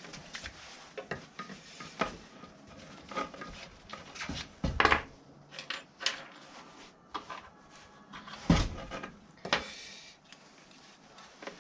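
Hard objects being handled and set down: an irregular run of clinks, clicks and knocks, with two louder knocks about five and eight and a half seconds in.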